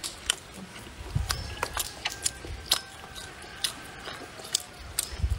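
Close-up eating sounds: chewing with irregular sharp mouth smacks and clicks.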